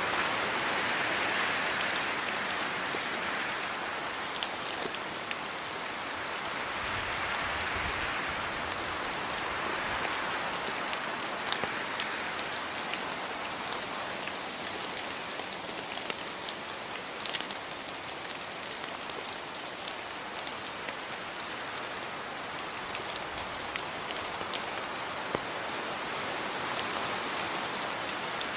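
Steady rain falling, with close drops pattering sharply on surfaces and a gentle swelling hiss of the rainfall behind them.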